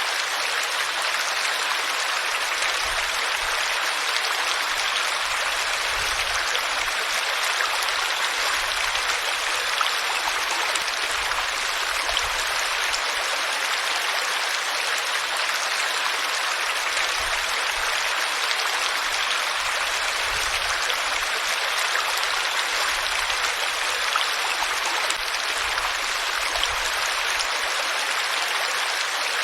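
Flowing water, a steady even rush like a stream running over rocks.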